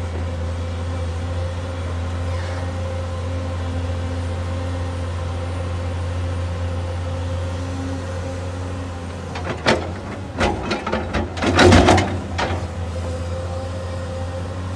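Steady low hum of a running vehicle engine, with a short burst of knocks and clatter about ten seconds in.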